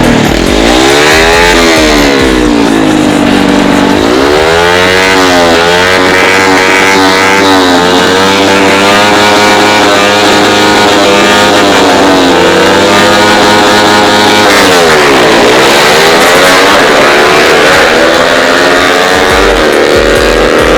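Small-displacement motorcycle engines with an open split exhaust, racing flat out down a drag strip. The pitch climbs steadily and falls back sharply at the gear changes, about 4 s and about 15 s in.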